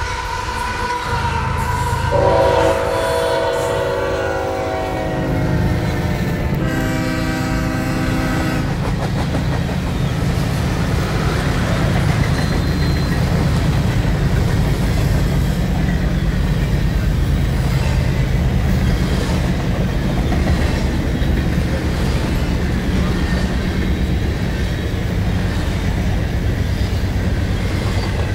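Canadian Pacific diesel freight locomotive's horn sounding two blasts, the first a few seconds long and sagging slightly in pitch, the second steady and shorter. Then the long freight train rolls past with a steady rumble and clack of wheels on rail.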